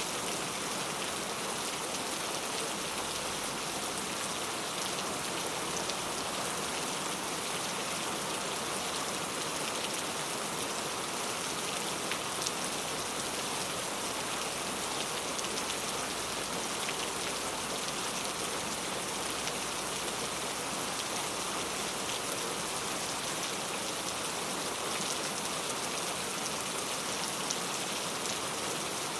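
Heavy rain falling on hard urban surfaces: a steady, dense hiss of countless drops pattering, with no let-up.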